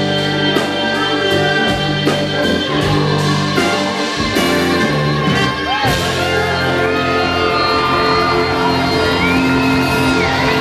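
Live band playing a song, with regular drum hits through the first half and long held notes, some of them gliding, in the second half.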